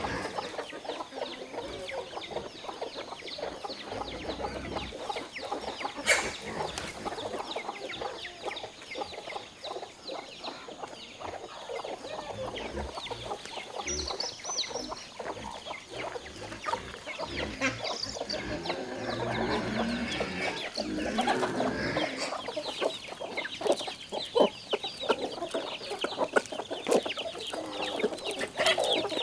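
Chickens clucking continuously, many short calls overlapping, with a sharp click about six seconds in.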